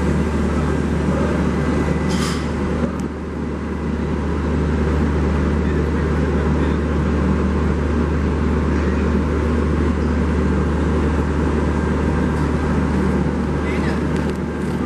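Steady low drone of a stationary passenger train's machinery, with a murmur of voices and a brief hiss about two seconds in.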